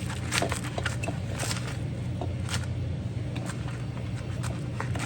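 Scattered short knocks and clicks as a refrigerator compressor is handled and set onto its mounts, over a steady low hum.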